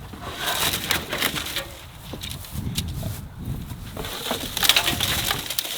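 Dry debris crackling and rustling, with a run of irregular sharp crackles and snaps, loudest in the second half.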